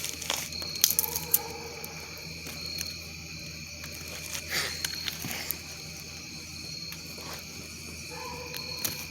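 Campfire crackling, with a few sharp pops in the first second and more around four to five seconds in, over steady high trilling of crickets.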